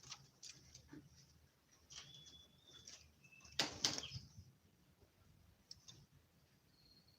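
Caged oriental magpie-robin (kacer) moving about, with a few short, thin whistled notes and light clicks and rustles. A louder rustling burst comes about three and a half seconds in.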